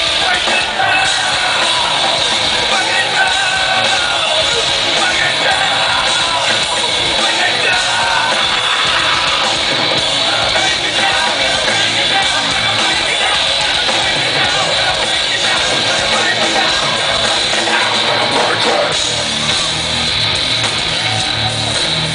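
Live heavy metal band playing loudly, with sung and yelled vocals over distorted guitars and drums.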